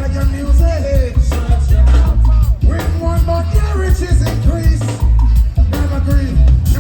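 Live reggae band playing loudly, with a heavy bass line and drums, and a voice singing over it.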